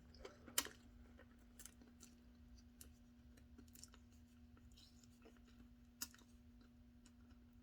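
Near silence: room tone with a faint steady hum and a few soft clicks, the clearest about half a second in and about six seconds in.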